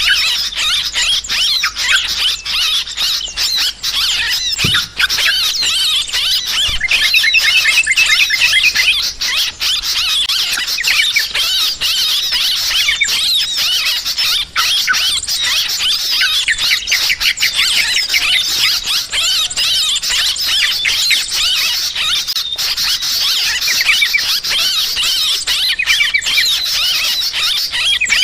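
Yellow-vented bulbuls (trucukan) chattering in a dense, unbroken chorus of overlapping squeaky chirps. This is the agitated, noisy calling ("ribut") played as a lure to draw birds in.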